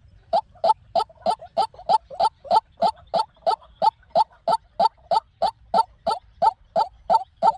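White-breasted waterhen calling: a fast, steady series of short, repeated calls, about three a second, starting after a brief pause.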